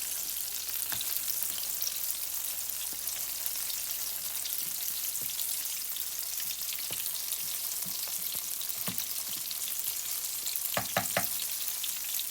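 Gram-flour-battered chicken pakoras deep-frying in hot oil in a karahi over a medium flame: a steady crackling sizzle, with a few quick sharp clicks near the end.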